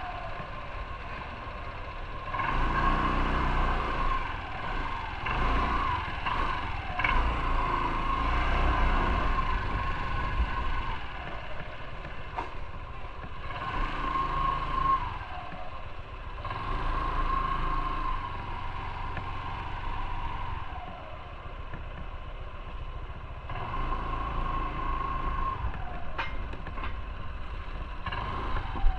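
Motorcycle engine running while riding, swelling in several surges as it accelerates and easing off between them.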